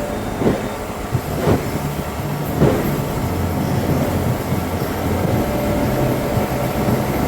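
Motorboat under way: a steady engine drone with rushing wind and water. Three louder thumps come in the first three seconds.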